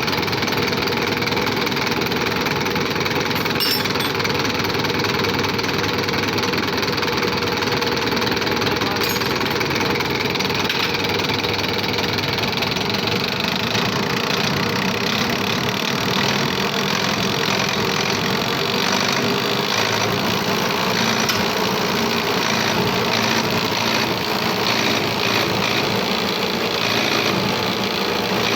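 Diesel injection pump test bench running steadily, driving a Fiat 640 tractor's fuel injection pump with a rapid mechanical chatter while its fuel delivery is being set.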